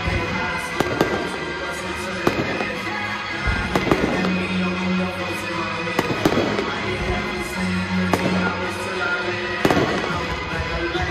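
Fireworks launching and bursting: a run of sharp, irregular bangs and pops over music.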